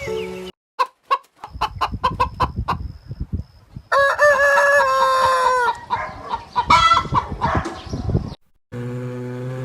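Rooster clucking in a quick run of short calls, then crowing one long cock-a-doodle-doo about four seconds in, followed by a few more calls.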